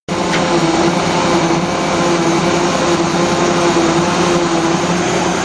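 Engine running steadily, a loud even hum with a constant drone.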